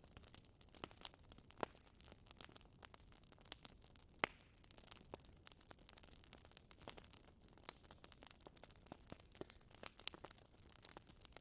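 Faint crackling of a wood fire burning in a fireplace: quick irregular snaps and pops over a soft hiss, with one sharper pop about four seconds in.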